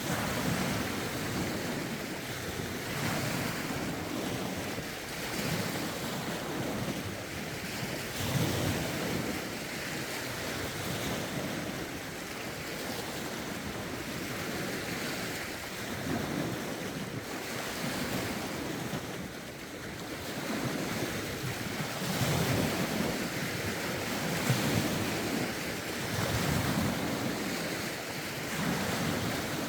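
Lake waves washing against the shore in a steady run of small swells every second or two, with wind gusting across the microphone.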